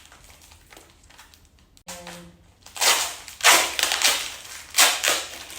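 Paper or plastic wrapping rustling and crinkling in several loud bursts as a small gift-shop souvenir is unwrapped, starting about halfway through, after a brief hum of voice.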